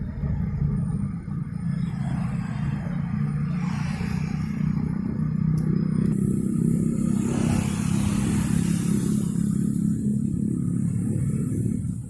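Small two-stroke engine of a string trimmer running steadily at speed. A rushing hiss swells about six seconds in and fades by about eight seconds in.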